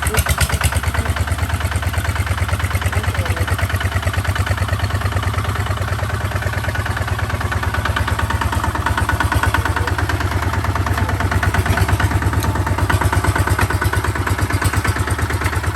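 Kubota tractor's diesel engine running steadily under way, a rapid even beat of firing pulses that grows a little louder in the second half.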